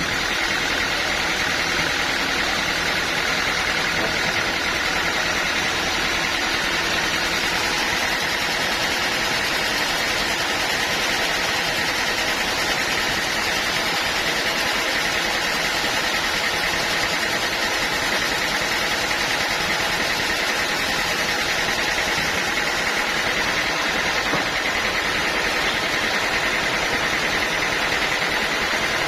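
Band sawmill running steadily: an engine drone with a steady high-pitched hiss and whine from the saw, unchanging throughout.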